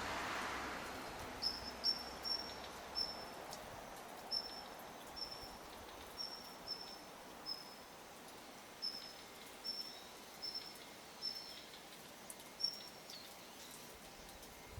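A small songbird giving short, thin, high call notes one at a time, about one a second, over a soft background hiss.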